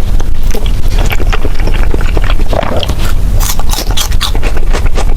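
Close-miked eating sounds: wet chewing and mouth smacking, with many short, sharp clicks.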